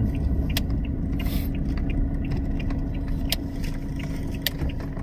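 A vehicle running on the road: a steady low rumble with a faint steady hum, and a few sharp clicks.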